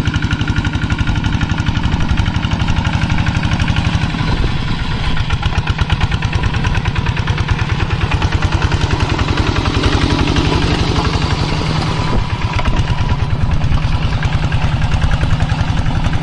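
Kubota tractor's diesel engine running steadily, with a rapid, even chugging, while it pulls a moldboard plough through the paddy field.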